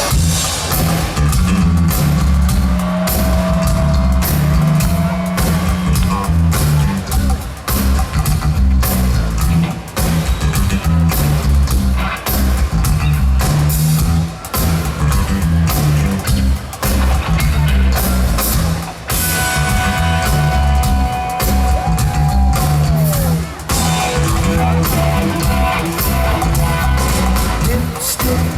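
Live rock band playing an instrumental passage on electric bass, drum kit and electric guitar: a busy stepping bass line under steady drum hits, with a held guitar note that bends down near the end.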